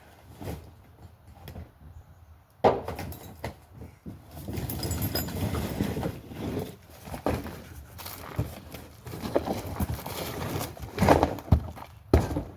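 Workshop handling noise from bumper repair work: a sharp knock about three seconds in, several seconds of rustling and scraping, then two more knocks near the end.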